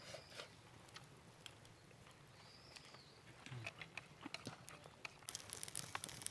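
Quiet meal sounds: scattered light clicks and taps of tableware, with one faint high chirp about halfway through. From about five seconds in, a dense, fast crackling starts.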